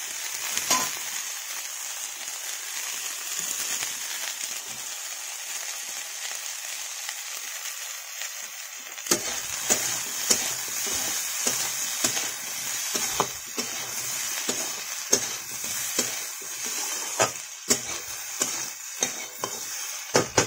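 Cauliflower and potato sizzling as they fry in a steel kadai, with a metal spatula scraping and knocking against the pan as they are stirred; the knocks come often from about nine seconds in.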